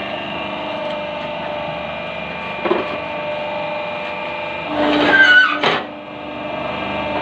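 Paving block press machine running with a steady motor hum, a knock about two and a half seconds in, and a louder stretch with shifting pitch around five seconds in before the sound briefly dips.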